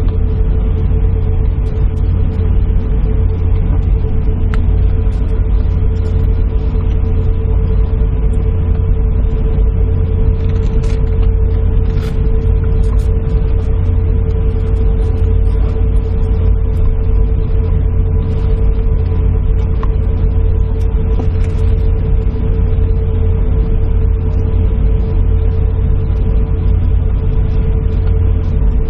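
Airliner cabin noise with the aircraft holding still: a steady low rumble with a constant mid-pitched hum over it, unchanging throughout.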